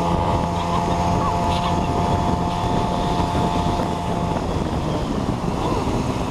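Scooter engine running at a steady pitch while riding, with heavy wind buffeting on the microphone; the engine's note weakens about four seconds in.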